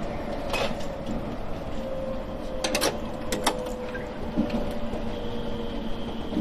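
JR Shikoku 7000 series electric railcar running along the track, heard from inside at the front of the car: a steady rumble with a faint steady motor tone, broken by a few sharp clicks and clacks, several of them close together near the middle.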